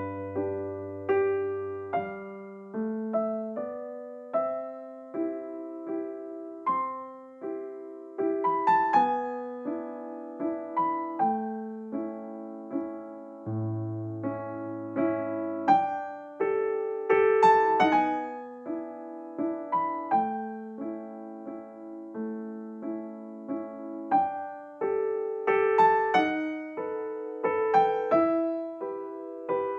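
Background piano music: a gentle melody of single struck notes over occasional held bass notes.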